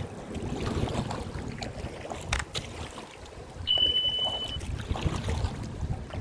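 Wind rumbling on the microphone and water splashing around a kayak at sea. There is a sharp click a little past two seconds in, and a single short high beep about two-thirds in.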